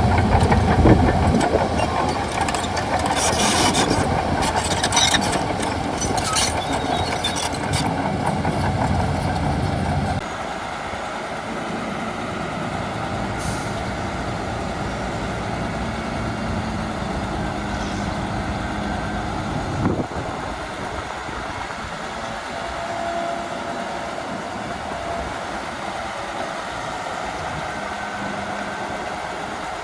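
Bulldozer working: a heavy diesel engine running under load, with bursts of high-pitched noise between about three and eight seconds in. About ten seconds in it drops to a quieter, steady running.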